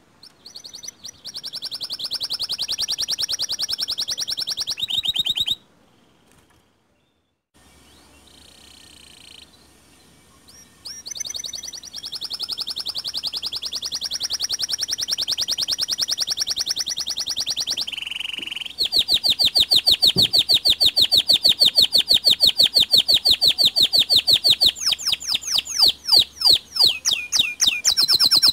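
White canary singing in long, very fast trills and rolls. The song breaks off twice in the first ten seconds, then runs on as a louder, rapid rattle of repeated notes.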